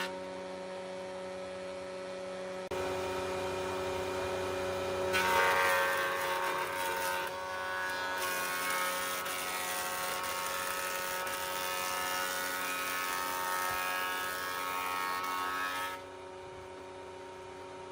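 Electric power tool motors running steadily with a humming whine. The sound shifts abruptly in level and pitch several times.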